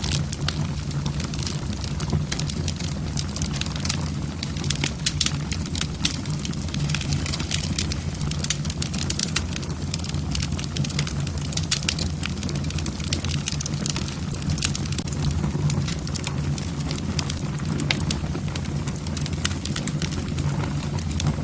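Wood fire burning in a fireplace: logs crackling with many small sharp pops over a steady low rumble of the flames.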